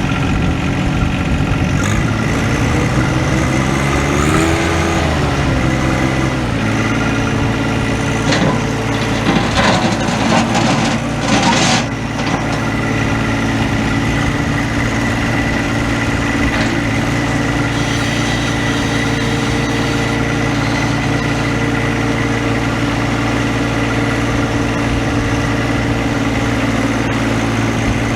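John Deere 1025R's three-cylinder Yanmar diesel engine running. Its pitch rises and falls briefly about four seconds in, then it settles into a steady idle. A few short rushes of noise come around ten seconds in.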